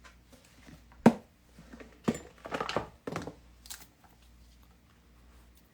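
Pigment sticks being handled and taken out of their box: a sharp click about a second in, then a couple of seconds of rustling and light knocks.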